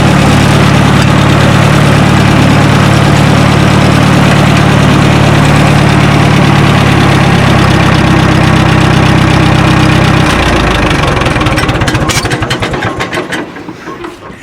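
Minneapolis-Moline tractor engine running steadily. About ten seconds in, its note drops and it winds down in uneven pulses, shut off after a successful test run.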